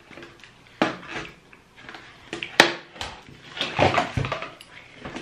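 Close mouth sounds of chocolate being eaten: a run of sharp lip smacks and clicks while chewing, the loudest about two and a half seconds in.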